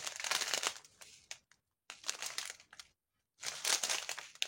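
Small plastic bags of diamond-painting drills crinkling as they are handled, in three spells with short pauses between.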